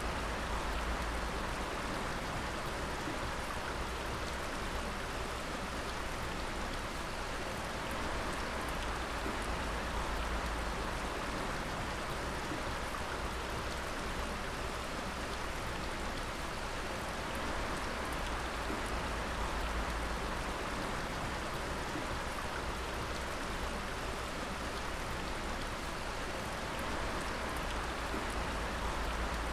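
Water dripping and splashing in many drops at once, a dense steady patter like rain, with a low rumble underneath.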